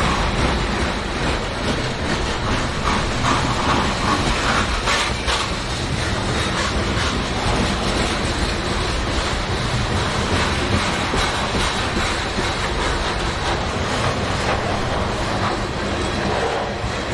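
Freight train of trash-container cars rolling past close by: steel wheels clicking over the rail joints over a steady rumble, with a faint high-pitched ring.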